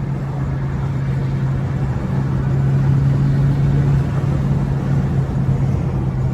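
BMW 428i's turbocharged four-cylinder engine breathing through an aFE intake, held at steady revs while cruising: a steady drone that swells slightly in the middle.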